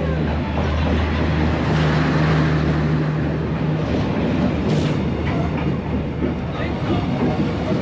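Diesel locomotive-hauled train passing at close range, with a steady low engine drone over the rumble and noise of wheels rolling on the rails.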